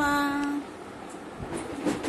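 A voice drawing out the word 'maa' on a steady pitch for about half a second. A steady background rumble follows, with a short sharp knock near the end.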